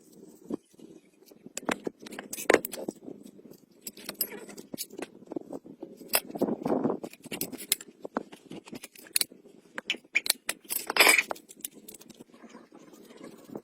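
Irregular sharp clicks and clinks, several a second, from small hard objects being handled, with a few louder knocks at about two and a half, six to seven and eleven seconds in.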